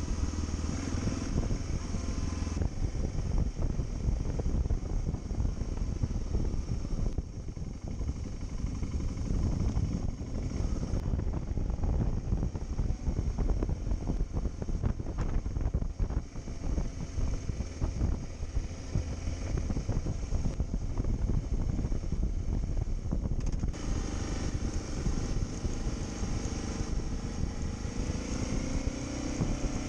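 A vehicle engine running while driving over a rough off-road track, with many knocks and rattles from the bumps. The engine note rises near the end as it picks up speed.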